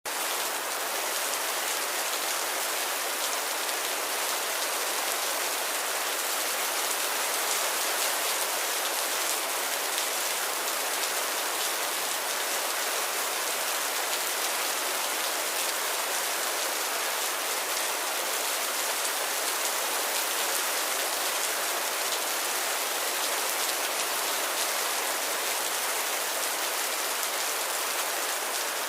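Light rain falling steadily, an even hiss with faint ticks of single drops through it.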